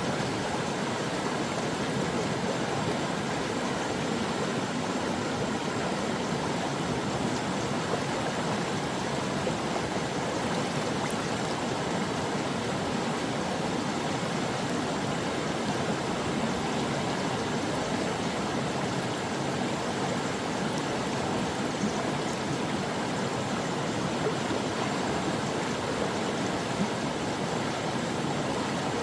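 Stream water running steadily over rocks, a continuous even babble and rush.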